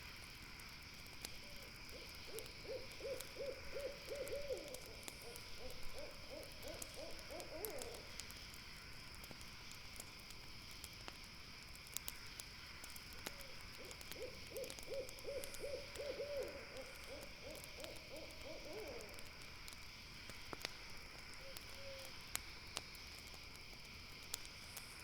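An owl calling in long runs of quick, evenly spaced hoots, about four a second, twice, the notes rising a little at the end of each run. Behind it, a steady high hiss and the scattered soft pops of a crackling campfire.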